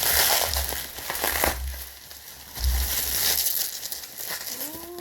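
Plastic bubble wrap being crumpled and handled, crinkling and crackling in two bursts, the longer one at the start and a shorter one about halfway through.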